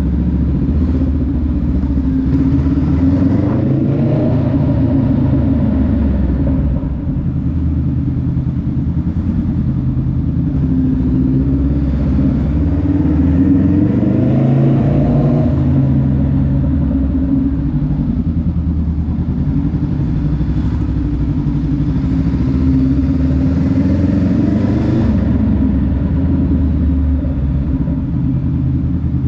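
Honda Rebel 500's 471 cc parallel-twin engine running under way, its pitch rising and falling several times as the bike accelerates and eases off.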